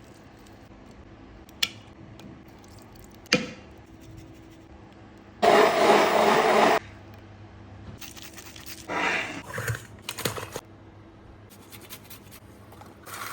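Food-preparation handling sounds: two sharp knocks, then a loud scraping rush lasting about a second and a half, followed by more scraping and clatter, over a steady low hum.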